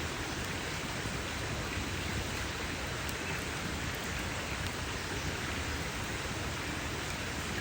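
Campfire burning with a dense, steady crackle and hiss, with a few faint sharp pops.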